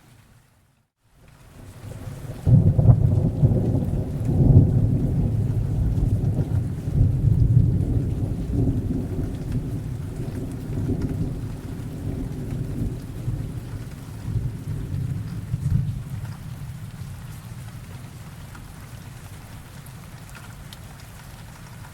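Thunderstorm: a long, deep roll of thunder breaks about two and a half seconds in, rumbling with several peaks and slowly dying away over about fifteen seconds, over steady rain. Just before the thunder, the sound cuts out completely for about a second.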